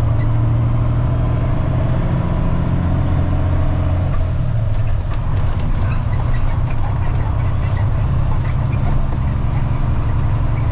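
Freightliner FLD dump truck's diesel engine running steadily as the loaded truck drives on the highway, heard from inside the cab. There is a brief dip in level about five seconds in.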